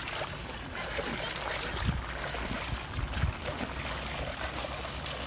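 Water trickling and splashing under heavy rain in a flooded rice field, as a steady wash of noise with a few short louder splashes about two and three seconds in.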